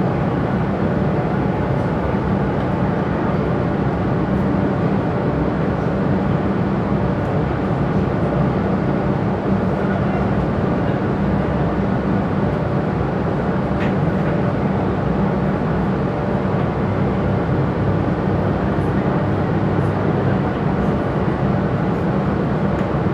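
Steady running noise of an electric passenger train at speed, heard inside the carriage: a constant low rumble of wheels on the rails and the running gear.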